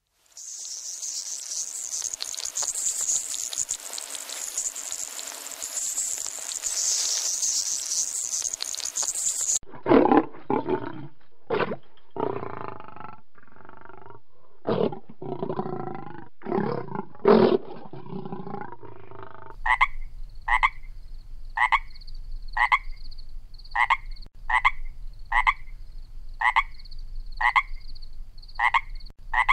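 A steady high hiss for about the first third, then lions growling and roaring in short, loud bursts, then a frog calling in short, evenly spaced calls, about one and a half a second.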